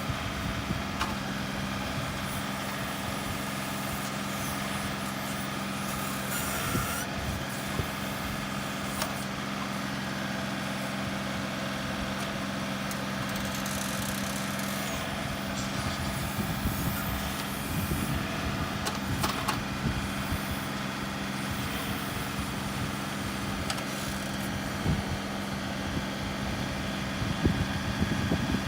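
A steady mechanical hum, engine-like, holding one even pitch, with a few faint clicks.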